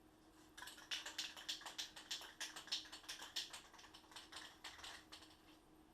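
A rapid, irregular run of light clicks and taps, several a second, starting about half a second in and thinning out near the end, over a faint steady hum.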